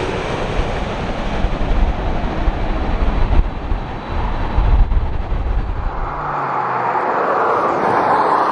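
Jet airliner engines rumbling as a plane passes. About six seconds in, the low rumble drops away abruptly, leaving a steady hiss.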